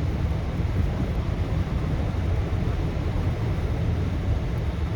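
Steady road noise inside a moving car's cabin: a low, even rumble of tyres and engine while driving at speed.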